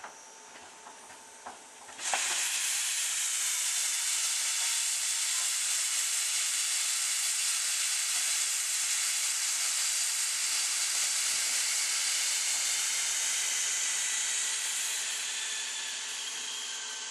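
Steam locomotive letting off steam: a loud, steady hiss that starts suddenly about two seconds in and eases off slightly near the end.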